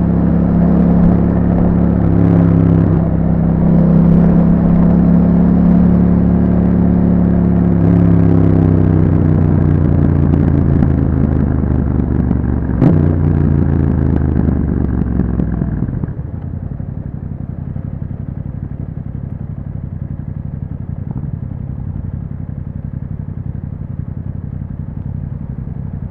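2021 Yamaha MT-07's parallel-twin engine through an aftermarket Akrapovic exhaust with a dB killer, running steadily under way with a few steps in pitch and a sharp click about halfway. About two thirds in it drops to a quieter, lower rumble and stays there.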